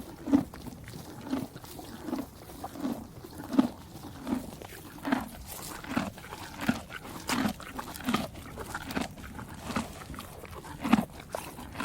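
Horse chewing hay, a steady rhythmic crunching about every three quarters of a second.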